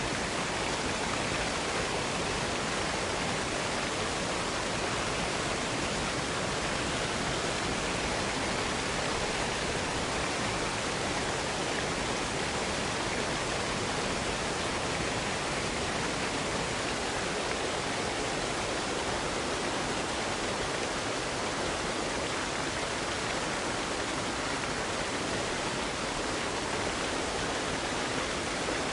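Waterfall cascade: water falling and splashing in a steady, unbroken rush.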